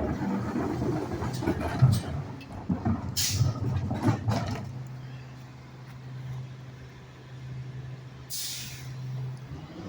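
Rear-loader garbage truck working, with knocks and rattling over its engine in the first half, then the engine running with a steady low hum. Two short hisses of air from the truck's air brakes come about three and eight seconds in.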